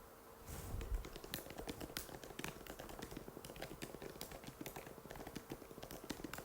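Fast typing on an Apple MacBook butterfly keyboard: a dense run of light, sharp key clicks starting about half a second in, over a faint steady hum.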